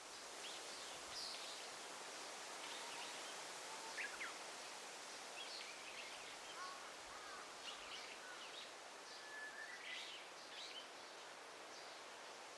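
Faint forest ambience: a steady soft hiss with short bird calls and chirps scattered through it, among them a falling call about four seconds in and a brief whistle near the end.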